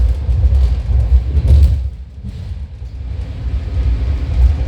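Loud, low rumble of a BART train running along the track, heard from inside the car, rising and falling in level.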